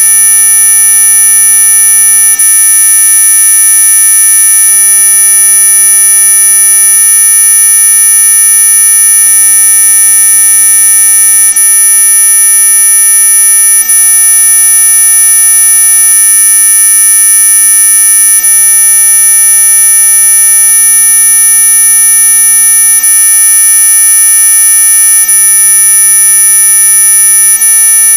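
Synthetic anti-mosquito repellent tone: a loud, steady electronic whine of several pitches held together, the strongest very high-pitched.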